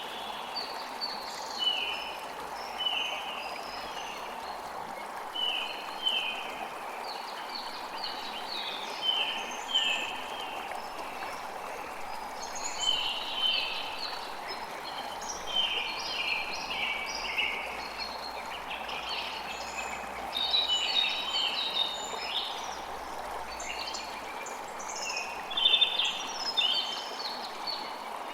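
Steady rush of running water with birds chirping over it in short, repeated notes, in clusters throughout.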